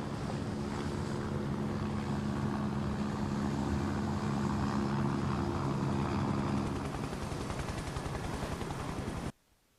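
Engine drone running steadily with a rushing hiss. It weakens about seven seconds in and cuts off abruptly near the end.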